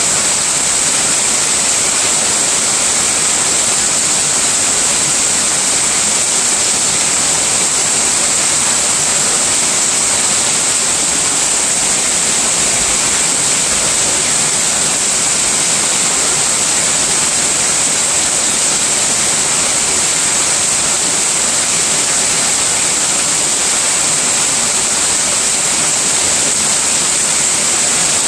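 Heavy rain in a steady downpour, with runoff pouring in streams off a roof edge and splashing onto the ground below: a loud, unbroken rushing hiss.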